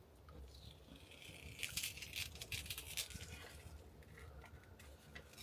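Hands working something off the paper of a painting: a run of quick, scratchy crinkling and rubbing strokes about one and a half to three seconds in, then fainter ones.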